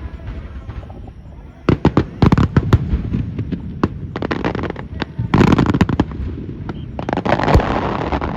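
Fireworks display: a quiet first second or so, then dense volleys of sharp bangs and crackling shells, with a loud bang near the end.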